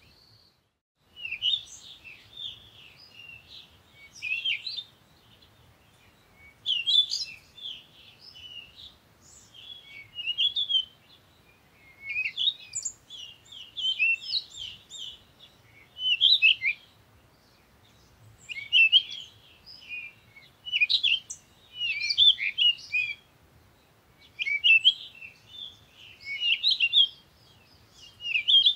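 Small birds chirping and twittering in repeated short bursts of quick, high, warbling notes with brief pauses between them.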